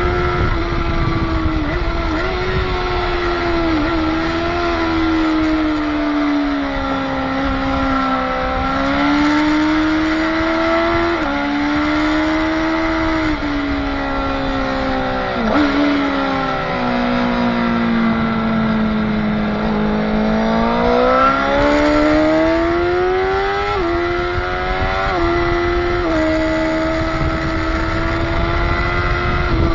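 Motorcycle engine heard onboard at track speed, revs gliding down and up through corners, with several sudden steps in pitch from gear changes, and wind rushing over the microphone.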